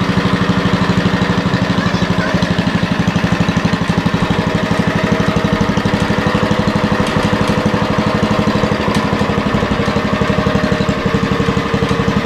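Old Lincoln Weldanpower engine-driven welder generator with a cast-iron Kohler engine, running steadily with an even, rapid beat. The engine is running smoothly and sounds healthy.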